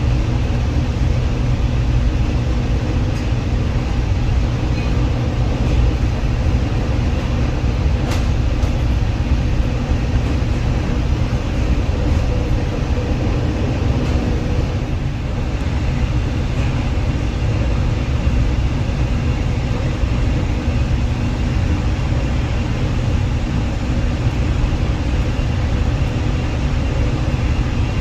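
Metra commuter train on the BNSF line running steadily: a loud, even low rumble with a steady hum.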